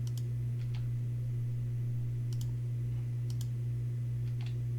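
Computer mouse clicking a handful of times, several of the clicks in quick press-and-release pairs, about a second or so apart. Under the clicks runs a steady, louder low electrical hum.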